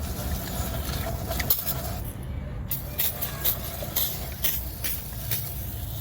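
A steady low engine-like rumble with a scatter of sharp clicks and scrapes, as of metal parts or tools being handled.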